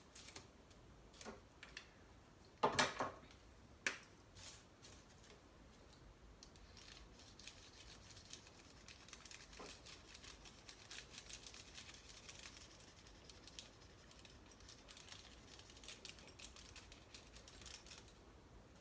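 Marker tip scratching over tin foil wrapped on cardboard, drawing in many quick short strokes that come thick and fast in the second half. A few louder knocks about three and four seconds in.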